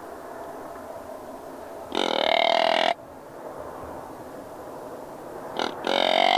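Two drawn-out, buzzy grunts blown on a deer grunt call, one about two seconds in and a shorter one near the end, used to call a whitetail buck.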